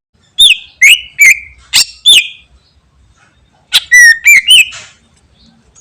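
Cucak ijo (green leafbird) singing loud, sharp whistled notes in two phrases: about five notes in the first two seconds, then a second, quicker run of notes about four seconds in.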